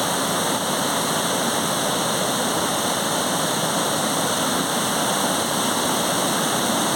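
Waterfall's falling water rushing in a steady, even noise.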